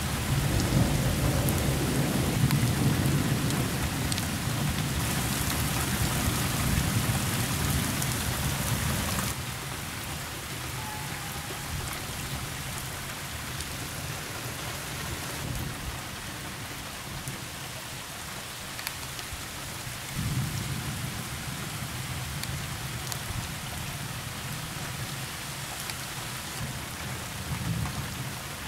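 Heavy rain falling steadily during a thunderstorm. A long low rumble of thunder runs through the first nine seconds, and another, weaker rumble comes about twenty seconds in.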